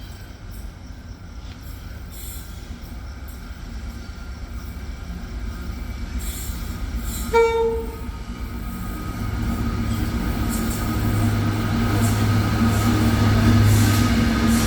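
Diesel locomotives hauling a loaded coal train approaching, their engine rumble building steadily louder, with one short horn toot about seven seconds in.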